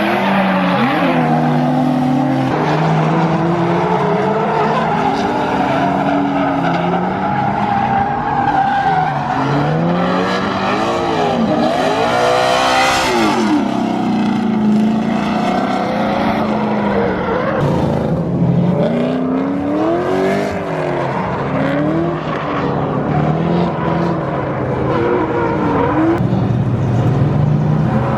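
Several drift cars running in a tandem train, their engines revving up and down over each other with tyre squeal. About halfway through, one car sweeps loudly close past.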